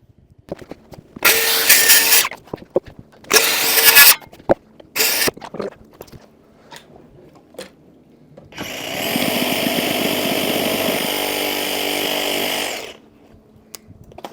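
Power tool working wood: three short loud runs in the first five seconds, then one steady run of about four seconds that stops suddenly near the end.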